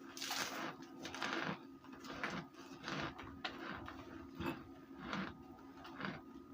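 Baked cornstarch being crunched: irregular dry crunches, roughly one a second, over a steady low hum.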